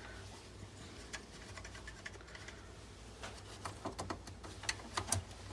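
Light clicks and taps of hands working plastic and metal parts inside a desktop PC case during disassembly, sparse at first and more frequent in the second half, over a low steady hum.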